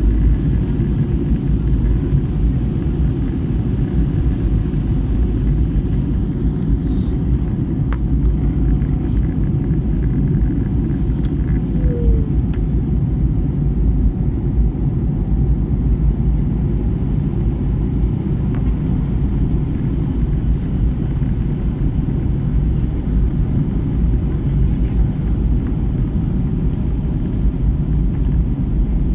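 Airliner cabin noise during the approach to landing: a steady, loud low rumble of engines and airflow.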